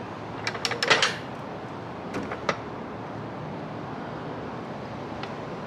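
Floor jack being handled into place under the car: a quick cluster of metal clicks and clanks about half a second to a second in, then two more single clicks a little after two seconds, over a steady background hiss.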